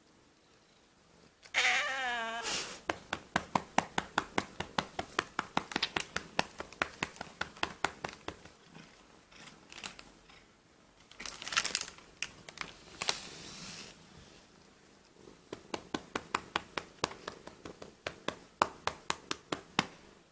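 A cat gives one wavering meow about a second and a half in. Then a hand pats the cat's rump in quick, even slaps, about three a second, in two long runs with a break near the middle.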